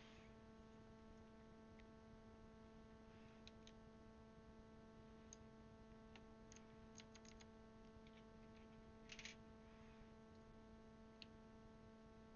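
Faint, scattered plastic clicks of keycaps being handled and pressed onto a mechanical keyboard's switches, with a short run of clicks about two-thirds of the way in, over a steady low electrical hum.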